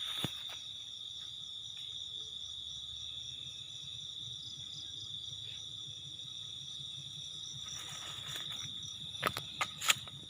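Insects trilling steadily at one high pitch. A few sharp clicks or knocks come near the end.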